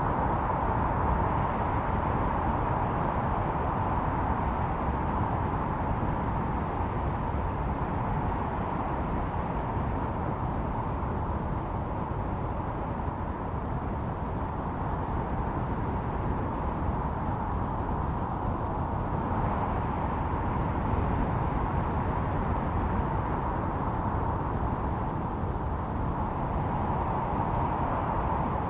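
Snowstorm wind howling steadily over a deep rumble, its hollow middle tone swelling and easing a few times, near the start, about two-thirds through and near the end.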